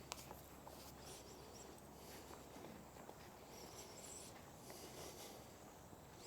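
Faint footsteps walking along a trail.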